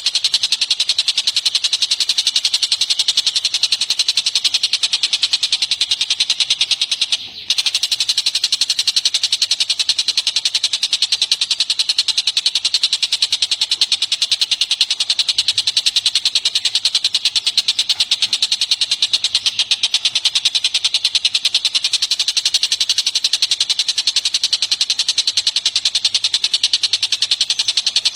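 Recorded songbirds calling in a continuous, very fast high-pitched trill, as in a bird-song training track of tengkek buto, cililin and kapas tembak. The trill drops out for a moment about seven seconds in, then resumes.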